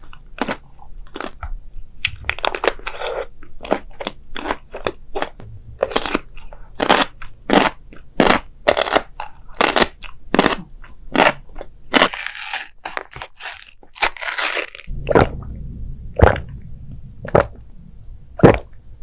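Mukbang eating sounds: a person chewing crisp food close to the microphone, a fast run of sharp crunches. A little past the middle there are a couple of seconds of continuous crackly noise.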